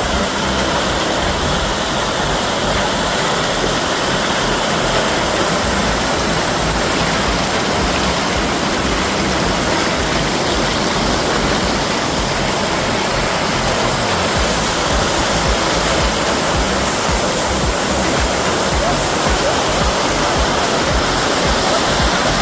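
Loud, steady rush of a large volume of water pouring from the Orós reservoir dam.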